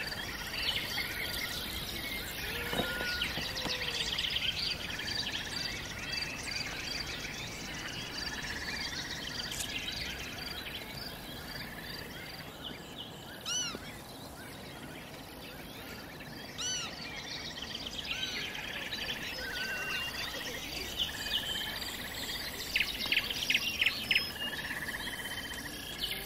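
Birds chirping and singing, many short calls and trills over a steady background hiss, with a quick run of louder chirps near the end.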